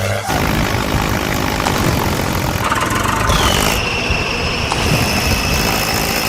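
Loud, steady motor noise of a vehicle. A high whine joins about halfway in, dips slightly in pitch and then holds steady.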